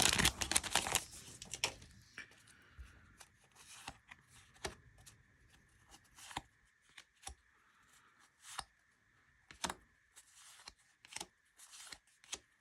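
Baseball trading cards being handled and laid down one at a time: a crinkling rustle in the first second or so, then separate soft flicks and taps about every second.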